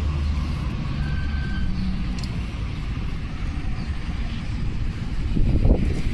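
Road traffic going by: a steady low engine and tyre rumble with hiss, getting louder and more uneven near the end.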